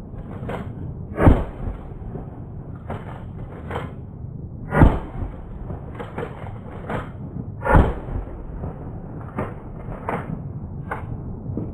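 12-gauge Model 1897-pattern pump shotgun firing three shots about three seconds apart, with the clack of the slide being racked between shots.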